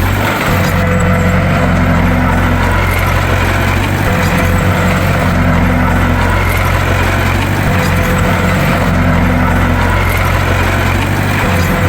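Bulldozer's diesel engine running steadily at a low, even pitch, swelling slightly about every three to four seconds.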